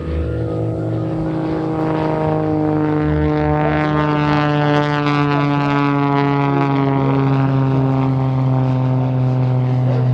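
Propeller engine of a Pitts S2 aerobatic biplane running at high power in a long pass, its pitch falling slowly and smoothly as it goes by.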